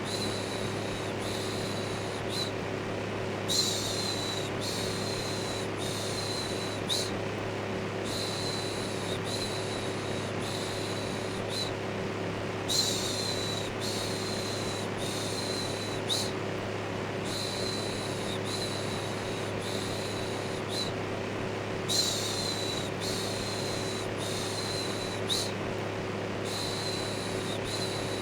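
Electric fan running with a steady hum, overlaid with a soothing "shhh" shushing repeated about once a second in runs of several, with short pauses between runs. It is white noise for settling a baby to sleep.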